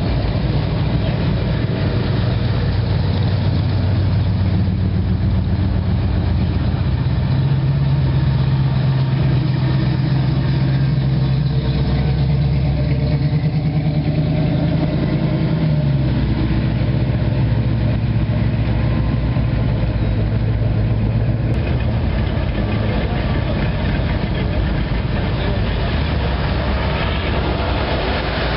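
Engines of hot rods and classic pickup trucks rumbling at low speed as they pass one after another. One steady engine note drops in pitch about halfway through as a vehicle moves off, and another cuts out a few seconds later.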